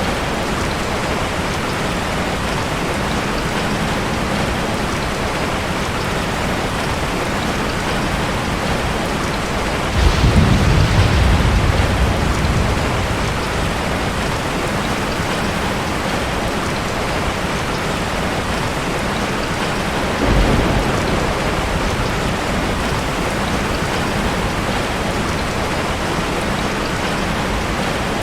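Steady heavy rain falling, with thunder rumbling: a loud deep peal about ten seconds in that fades over a few seconds, and a shorter, weaker rumble about twenty seconds in.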